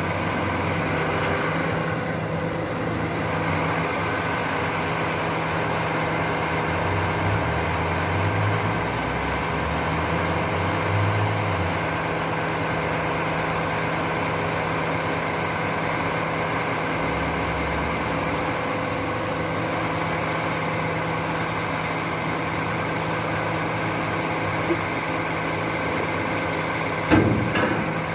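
Garbage truck engine running steadily at idle, with a few deeper swells in its rumble and a single knock near the end.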